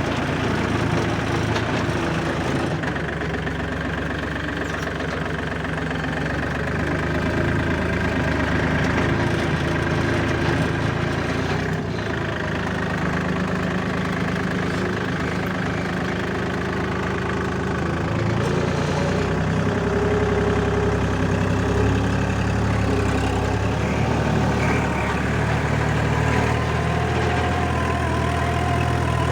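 Four-wheel-drive tractor engine running steadily while pulling a rotavator through a field, its note shifting slightly in pitch now and then.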